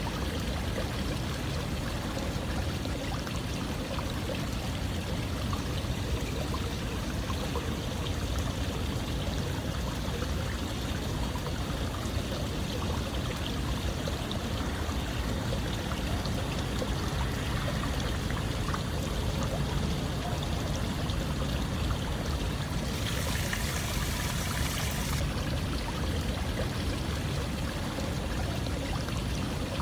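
Running water flowing steadily, an even rushing and trickling like a stream, which becomes briefly brighter and hissier about three-quarters of the way through.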